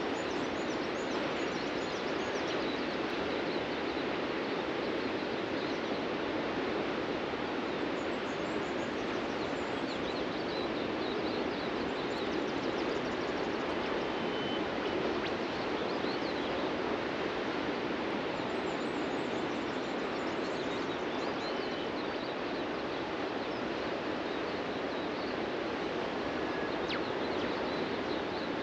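Steady wash of ocean surf breaking on a beach, with faint, scattered bird chirps above it.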